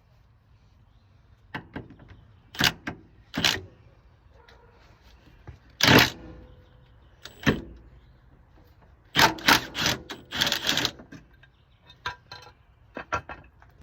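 Hand tools working on the CR-V's underside bolts: irregular sharp metallic clicks and clanks, with a quick run of clicks about nine to eleven seconds in.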